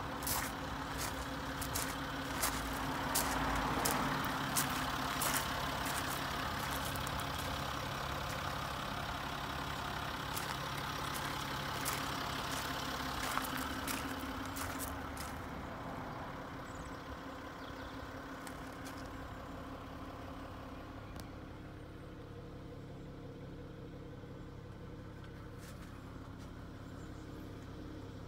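Citroën C6's engine idling steadily, with irregular crunching footsteps on gravel through the first half. In the second half the footsteps stop and the idle is quieter, heard from inside the cabin.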